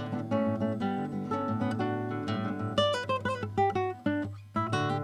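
Background music: acoustic guitar picking a melody over chords, with a run of quick picked notes in the middle.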